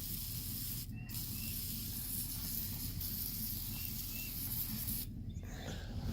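Aerosol can of PB Blaster penetrating oil spraying in a long hiss, with a brief break about a second in, stopping about five seconds in.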